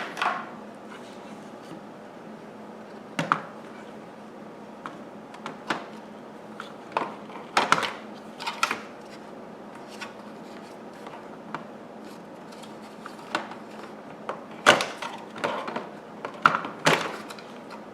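Irregular knocks, clicks and rustles of new vacuum cleaner parts and their packaging being handled and set down, in short clusters with pauses between.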